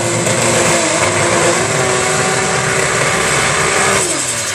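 Turbocharged Chevrolet Opala drag car's engine held at steady high revs during a burnout, the rear tyre spinning. Near the end the revs drop sharply as the driver lifts off.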